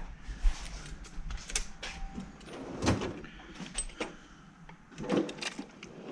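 Scattered clicks, knocks and scrapes of car parts being handled and worked loose in the engine bay, the loudest knock about three seconds in.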